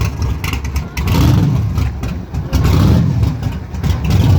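Car engine running and being revved, its low sound swelling and falling about three times.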